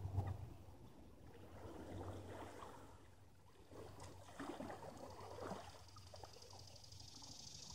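Quiet, irregular water sloshing and dripping around a kayak, with a few small splashes about two seconds in and again between four and five and a half seconds.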